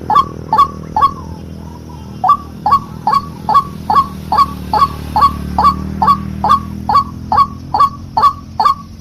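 White-breasted waterhen (ruak-ruak) lure call: a rapid, steady run of short, sharp, upward-sliding notes, about two and a half a second. The run pauses for about a second near the start, over a steady low hum.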